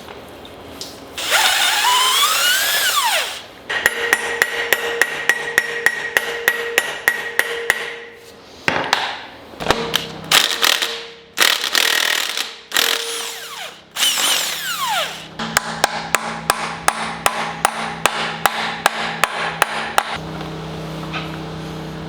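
Power tool, most likely an impact wrench, working in several bursts. Near the start its motor whines up and back down; then it hammers in long runs of fast, even blows, with short pauses between runs.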